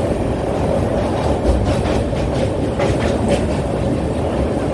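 Howrah Duranto Express running along the track: a steady, loud rumble of wheels on rails, with a few clicks from the rail joints, heard from aboard the moving coach.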